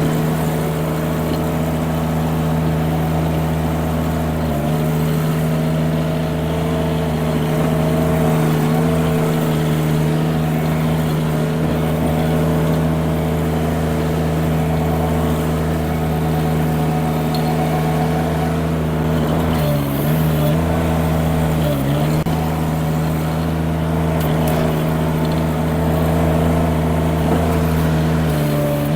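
Mini skid steer engine running steadily at high throttle. Its pitch dips briefly twice, about 20 and 22 seconds in, as it loads down under work and recovers.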